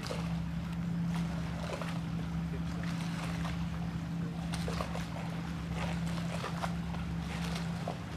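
Steady machine drone holding one low pitch, with scattered light clicks and knocks over it.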